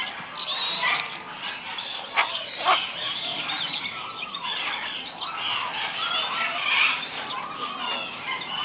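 Many birds calling at once in a continuous, overlapping chorus of harsh squawks and honking calls, with two sharp, louder calls a little over two seconds in.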